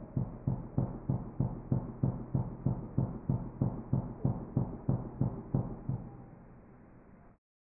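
Hairy woodpecker drumming on wood, played back slowed down so that each strike of the roll comes as a separate low knock, about three a second. The knocks stop about six seconds in.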